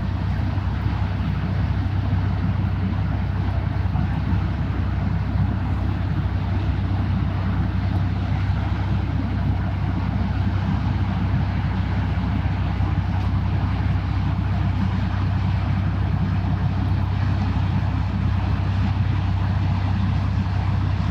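Steady low drone of a passing vessel's engine, one unchanging hum under an even rushing noise.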